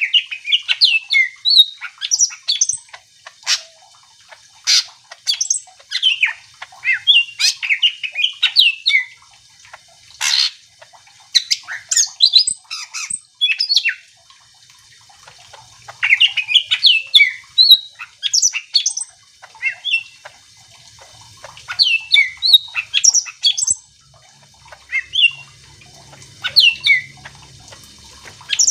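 Cucak ijo (green leafbird) in full song: rapid phrases of varied whistles mixed with harsh, squawky notes and sharp clicks, coming in bursts with short pauses between them.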